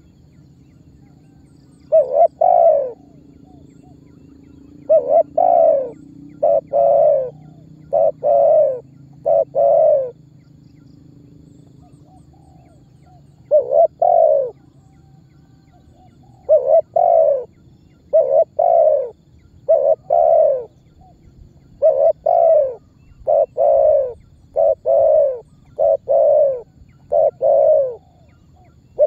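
Spotted dove (tekukur) cooing: short repeated coo notes, a few scattered groups at first, then a quick, almost unbroken run of notes through the second half. A faint low hum lies underneath.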